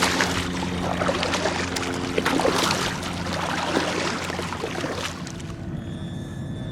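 Water splashing and slapping against a kayak hull, with a low steady hum underneath; the splashing eases off about five seconds in.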